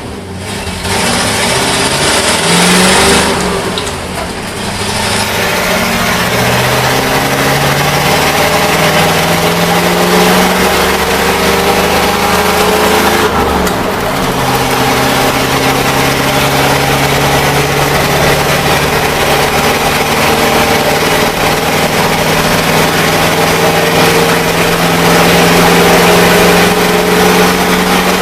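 International Harvester SV304 gasoline V8 of a 1973 Loadstar bus accelerating hard through the gears of its four-speed manual. The engine pitch climbs, drops at gear changes near the start, about four seconds in and about thirteen seconds in, then rises slowly and steadily.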